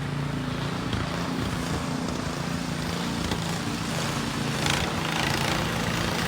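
An engine running steadily with a low, even hum, over a hiss of wind and outdoor noise; a short rush of noise comes about four and a half seconds in.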